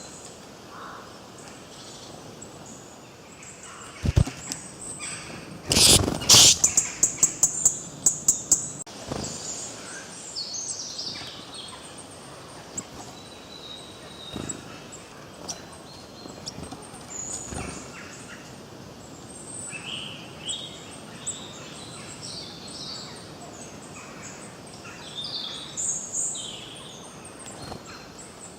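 Forest birds chirping and singing, with many short high calls. About six seconds in there is a loud, rapid run of sharp strokes that dies away over two seconds or so.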